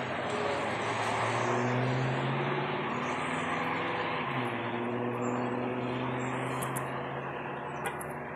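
A vehicle's engine hum, slowly wavering in pitch, over a steady hiss, passing and fading gradually away towards the end.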